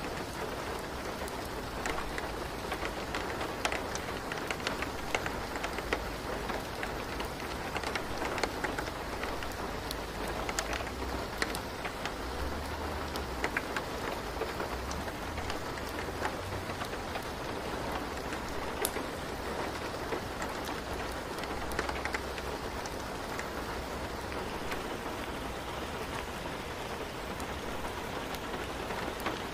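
Steady rain falling, with many scattered sharp drop ticks over an even hiss and a low rumble underneath.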